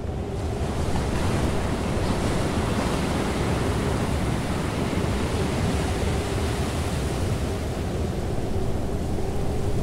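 Steady, even rushing noise with a faint steady hum underneath.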